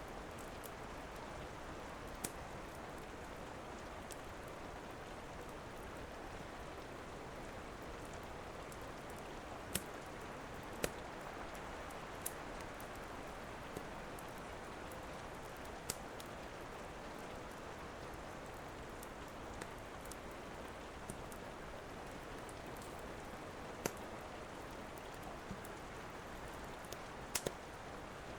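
Steady rain, with a wood fire giving sharp, scattered crackling pops about every second or two.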